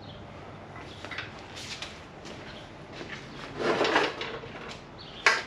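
Scraping and clattering of hand tools and body parts being worked on the car, with a louder scrape a little before the end and two sharp knocks just before it ends.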